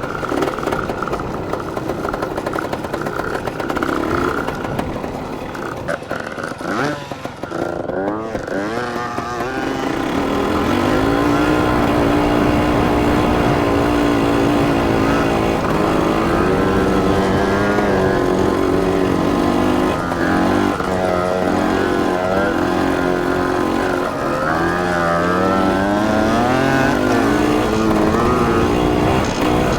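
Dirt bike engine running while being ridden. It eases off about six seconds in, then picks up again, its pitch rising and falling as the throttle is worked and gears change.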